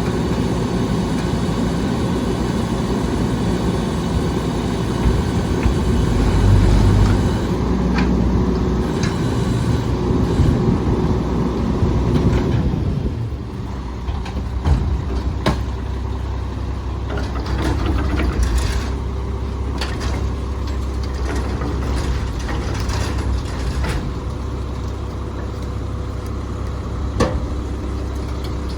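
Rear-loader garbage truck working: for about the first 13 seconds a loud, dense mechanical din from the engine and packer, then it drops to a steady low engine hum with scattered knocks and clanks.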